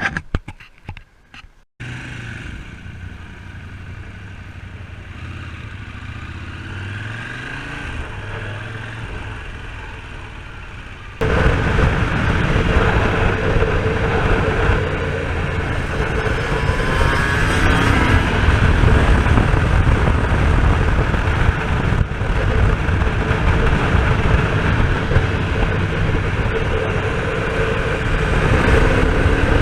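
Aprilia RS250 two-stroke motorcycle engine pulling away, its pitch rising and dropping through the gears. About eleven seconds in, loud wind noise on the microphone joins the engine and stays at speed.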